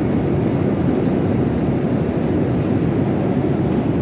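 Steady low rumble of airliner cabin noise in flight: engine and airflow noise at an even, loud level.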